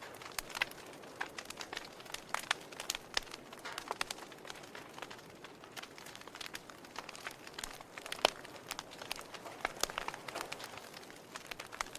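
Wood fire burning in a fireplace, crackling with irregular sharp pops over a steady soft hiss; one louder pop a little past the middle.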